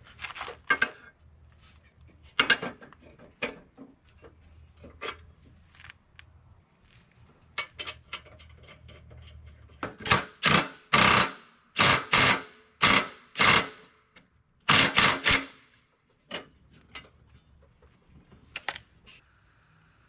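Cordless DeWalt 3/8-inch stubby impact driver running in a string of short, loud bursts on a riding mower's deck spindle and pulley, about halfway through. Before that come scattered clicks and knocks of tools on metal.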